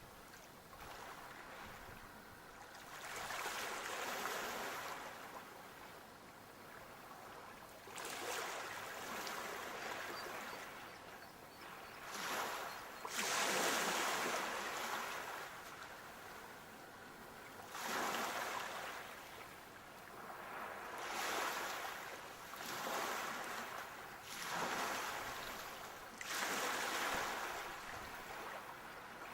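Sea waves breaking in repeated surges every few seconds, each rising and falling away, with a quieter wash between them.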